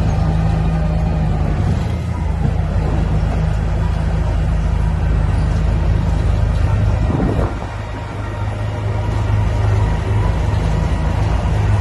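Heavy diesel engine of earthmoving machinery running steadily under load, with a deep, even drone; the sound drops briefly about two-thirds of the way through and then picks up again.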